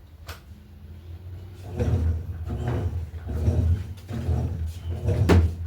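Electrolux LTE08 top-load washing machine agitating. From about two seconds in, the agitator swishes the load back and forth through the water, about three strokes every two seconds, over a low motor hum.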